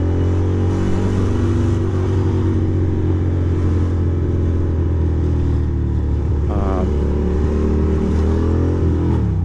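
2006 Ducati Monster 620's air-cooled V-twin engine running at a steady riding speed, heard over wind rush; the revs drop near the end.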